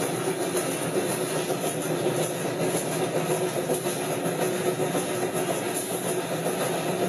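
Steady running noise of a railroad train in motion: an even rumble and hiss with a constant hum.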